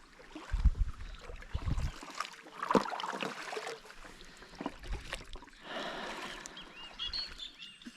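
Kayak paddling on a river: paddle strokes splashing in the water, with a few low knocks in the first two seconds. Birds chirp near the end.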